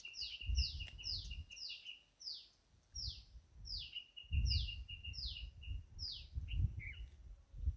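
A bird singing a repeated series of short notes that fall in pitch, about two a second, over a thin steady high tone. Irregular bursts of low rumble sit underneath.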